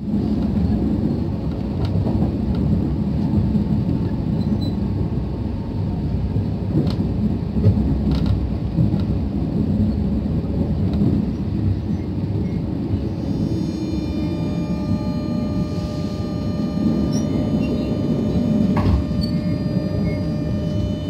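Passenger train running at speed, heard from inside the carriage: a steady low rumble with a few faint clicks. About two thirds of the way through, a faint high steady whine of several tones joins in.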